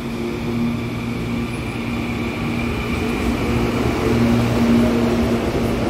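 CPTM electric commuter train rolling past close by: a rumble with a steady low hum and a high whine, growing louder as the cars draw alongside.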